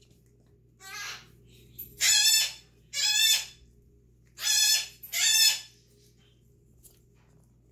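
Pet talking bird yelling: five loud, harsh calls of about half a second each, the first softer, then two pairs close together.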